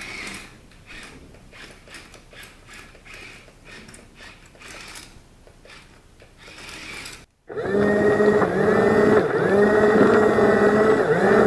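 A machine's motor running with a steady whine. It falls away at the start to a quiet stretch of scattered clicks, then comes back loud about seven and a half seconds in.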